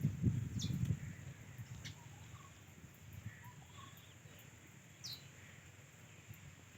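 Outdoor ambience: a few short, high, falling bird chirps over a steady high hiss, with low rumbling in the first second.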